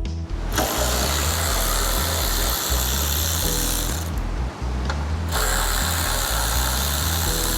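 A power tool such as a cordless drill or driver running in two long runs, with a short pause about four seconds in, over background music with a steady bass beat.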